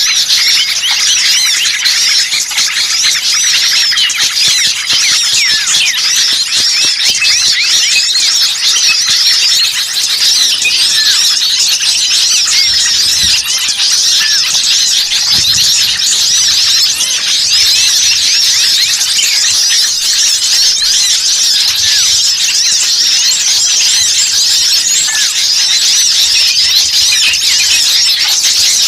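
Bird-lure recording of many small birds calling at once: a dense, continuous chatter of rapid high-pitched chirps and agitated calls, the kind of flock commotion played to draw wild birds in.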